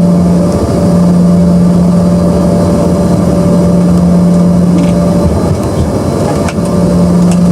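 Embraer ERJ-145's twin Rolls-Royce AE3007 turbofan engines running loud and steady, heard from inside the passenger cabin: a steady hum and a fainter higher tone over a rumble, with a few faint clicks near the end.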